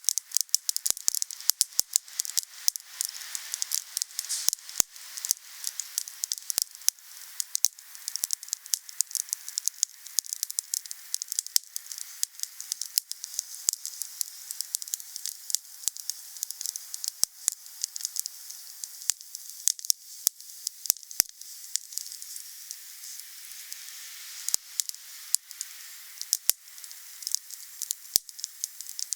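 Wood fire crackling: dense, sharp pops and snaps over a steady high hiss.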